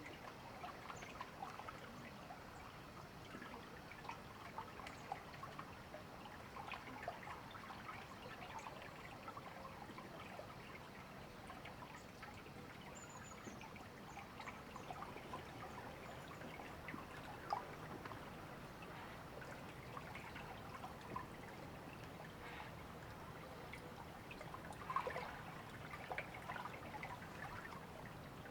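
A shallow river trickling and babbling steadily over stones, with a couple of slightly louder splashes at about 17 and 25 seconds in.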